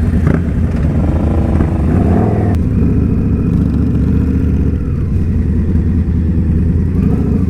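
Indian Scout Bobber's V-twin engine running steadily under way, heard from the rider's own bike along with road and wind noise. Its pitch shifts briefly about two seconds in.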